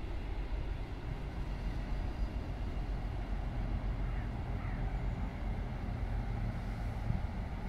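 Sprinter diesel multiple unit crossing a river bridge: a steady low rumble.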